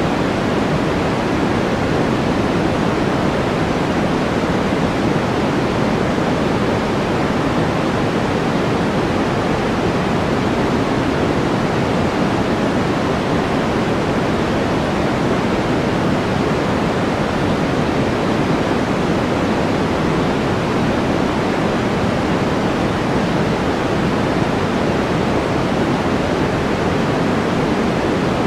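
Steady white-noise track: an even, unbroken rushing hiss, heavier in the low-middle range than in the highs.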